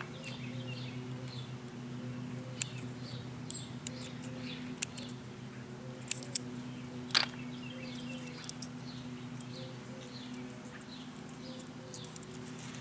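Scissors snipping through straw in a few sharp clicks, over small birds chirping again and again and a steady low hum.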